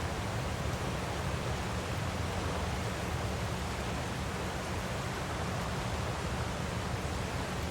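Waterfall rushing steadily: an even, unbroken noise that is heaviest in the low end.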